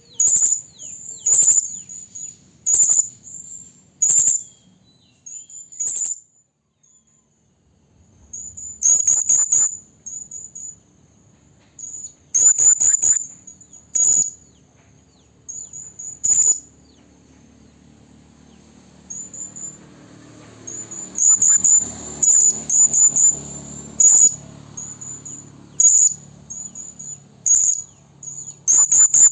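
Serindit (hanging parrot) calling: short, shrill, high-pitched notes in quick clusters, repeated every second or two, with a pause of a couple of seconds about seven seconds in. It is a lure call used to draw other serindit in.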